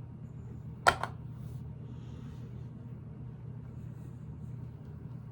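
A steady low hum with a single sharp click about a second in, from plastic Lego pieces being handled during the build.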